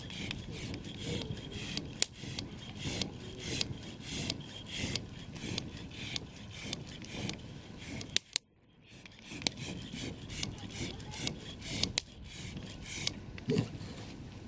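Rhythmic rasping strokes, about two a second, like something being sawn or scraped, with a few sharp pops among them. The sound drops out for under a second a little past the middle.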